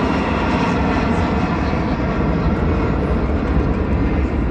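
Jet airliner's engines: a loud, steady rumble from a plane passing low overhead.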